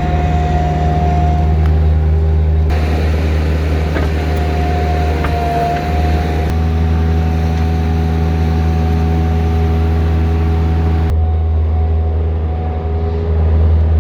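Bobcat 763 skid-steer loader's diesel engine running steadily, with a steady whine above the engine note; the sound shifts abruptly a few times.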